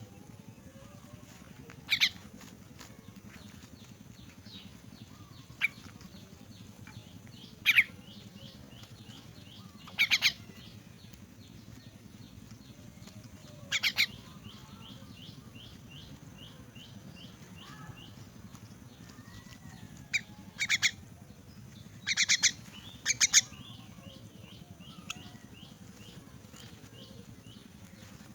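Young myna birds giving short, harsh, loud squawks, about nine in all and some in quick pairs, with runs of rapid, soft, repeated chirps between them, typical of chicks begging for food.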